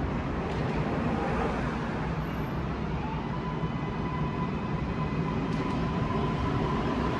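MARTA rapid-transit train approaching along the track: a steady low rumble with a thin whine that comes in about three seconds in, growing slightly louder near the end.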